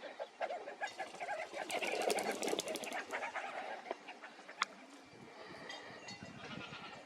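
A group of desert birds calling in many short overlapping notes, busiest in the first half. A quick run of sharp clicks or flutters comes about two seconds in, and a single sharp click comes later.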